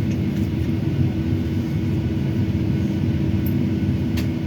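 Steady rumble of a Boeing 757-300 airliner heard from inside the cabin, with a constant hum over the low roar and a small click near the end.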